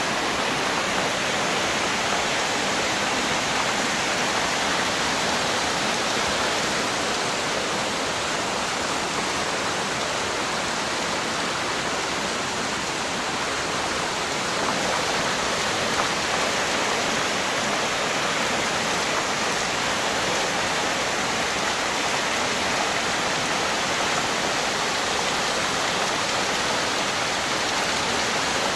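Floodwater rushing steadily, an even wash of water noise.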